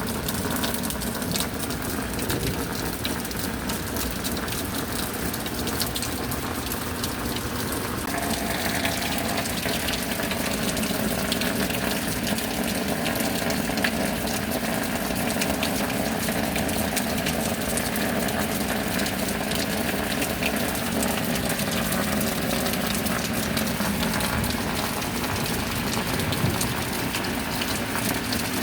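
Heavy rain falling steadily, with water gushing and running. The hiss of the rain grows fuller about eight seconds in.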